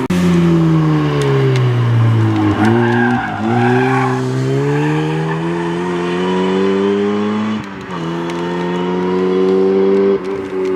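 Performance car engine on track: the revs fall for about two seconds as the car slows, with a brief tyre squeal about three seconds in, then it accelerates hard with the revs climbing steadily and gear changes about eight and ten seconds in.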